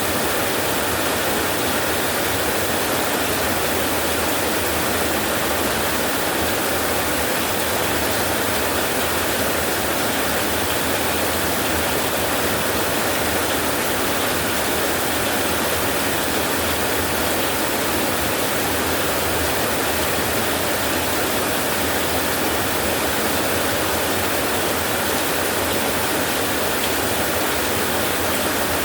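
Rain falling steadily as a dense, even hiss, with no separate drops or thunder standing out.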